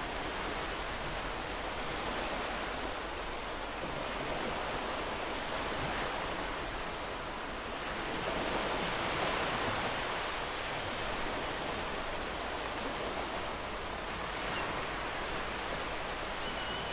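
Ocean surf breaking and washing on a shore: a steady hiss of waves that swells gently and eases, fullest about halfway through.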